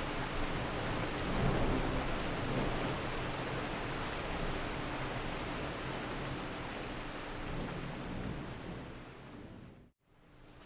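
Steady city rain with a low rumble of thunder swelling about a second and a half in. The rain fades out to a brief silence near the end and fades back in.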